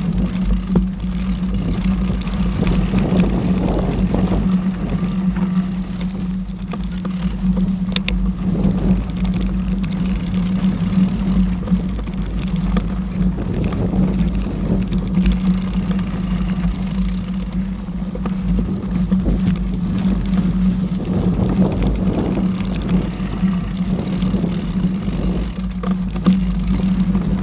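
Mountain bike riding on a forest trail, heard as steady rumble and rattle with a constant low hum on the bike- or helmet-mounted camera's microphone. A few brief high squeaks come and go.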